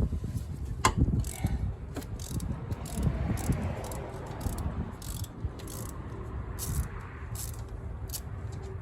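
Socket ratchet with a 14 mm socket clicking in short, irregular strokes as the lower alternator mounting bolt is loosened.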